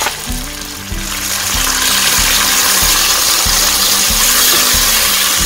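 Tomatoes sizzling in hot oil with onions and whole spices in a pot, stirred with a wooden spoon; the steady hiss swells about a second in and holds.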